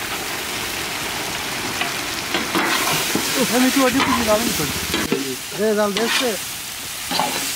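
Chopped dried fish sizzling and frying in hot oil and spice paste in an iron karahi as a metal ladle stirs it, with a steady hiss throughout. A few short pitched sounds rise over the frying from about two and a half seconds in.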